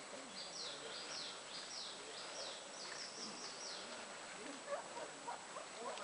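A small bird singing in the forest: a run of about ten quick high notes, roughly three a second, over about three seconds, faint above a soft steady background hiss.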